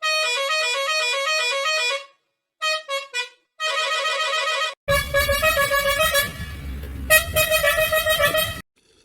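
Vehicle horn sample pitch-shifted into quick runs of stepped notes, like a tune, in several short phrases with brief gaps. In the second half a low rumble runs beneath the notes.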